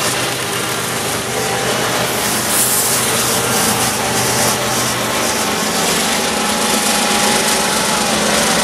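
A passing train: steady wheel-on-rail noise with a locomotive engine running.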